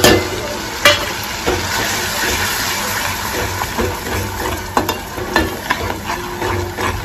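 Spiced masala sizzling in hot oil in a metal pot while a metal spoon stirs it, with sharp knocks of the spoon on the pan near the start and about a second in, and a few lighter ones later. The masala is being fried down (bhuna) in the oil.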